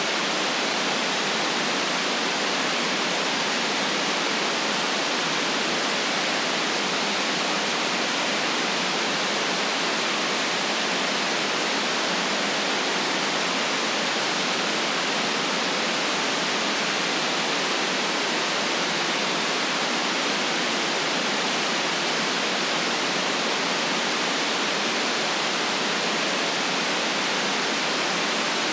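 Steady white noise: an even hiss with no change in level.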